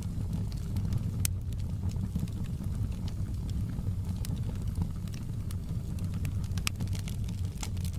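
Log fire burning in a fireplace, with scattered sharp crackles and pops over a steady low rumble.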